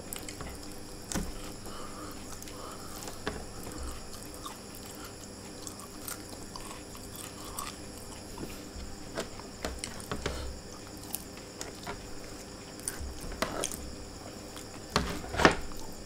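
Close-up chewing and mouth sounds of a man eating rice and chicken with his fingers, with scattered small clicks and soft taps as his fingertips pick scraps off the tray. A few sharper clicks come near the end as he brings food to his mouth.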